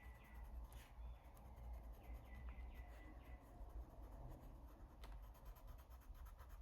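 Faint scratching of a colored pencil stroked lightly back and forth over paper while blending, with a soft tick or two.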